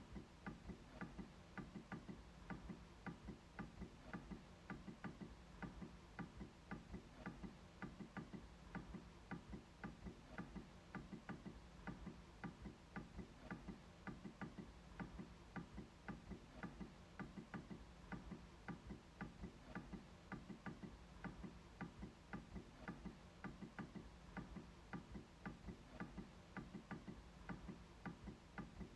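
MacBook trackpad being clicked over and over at an even pace, about two to three faint clicks a second.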